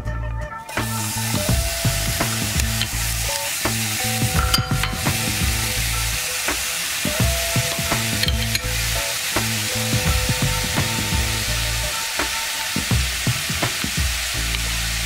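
Thin-sliced beef brisket sizzling in a hot frying pan as it is stir-fried with garlic and green onion, the sizzle setting in under a second in. A wooden spoon clicks and scrapes against the pan as the meat is turned.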